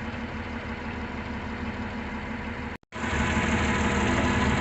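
Komatsu off-road truck's diesel engine running steadily. A little past halfway the sound drops out for a moment and comes back somewhat louder.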